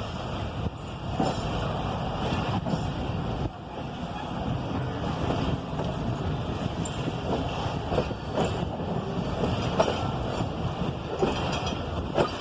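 Pakistan Railways passenger train running, heard from on board: a steady rumble of wheels on the rails with irregular clanks and knocks.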